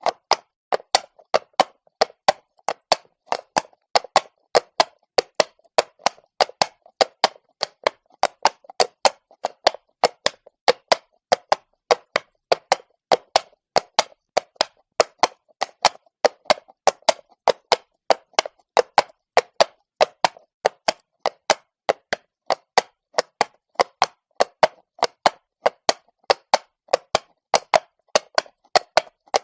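A horse's shod hooves striking stone at a walk: a steady run of sharp clip-clop knocks, about three to four a second, falling in an uneven four-beat pattern.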